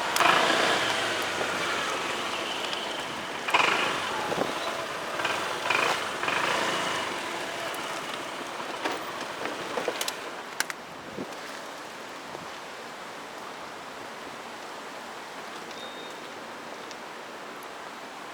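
Road vehicle noise with a few sharp knocks, fading over about ten seconds to a steady hiss.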